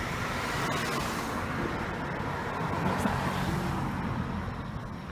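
Steady murmur of an outdoor crowd at a fireworks display, with faint voices in the background.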